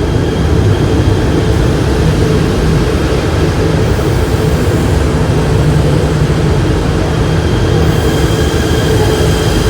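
Electric passenger train running with a steady, loud rumble and a faint steady whine.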